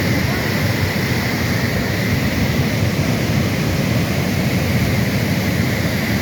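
Flash-flood water rushing in a steady, heavy torrent, its noise loudest in the low range.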